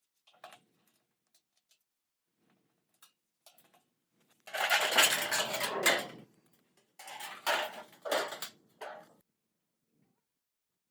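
Clatter and scraping of hard objects being handled: a few light clicks, then a loud rough scrape lasting about two seconds, followed by several shorter scrapes and knocks.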